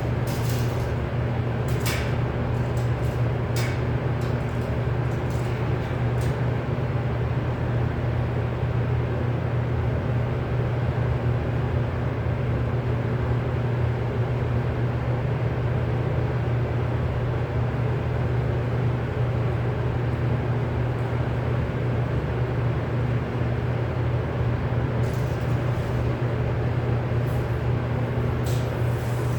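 Steady low mechanical hum, unchanging in level, with a few light clicks near the start and again near the end.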